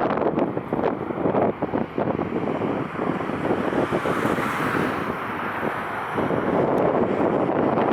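Strong gusty wind buffeting an unshielded microphone, a loud rumbling noise that swells and dips with the gusts.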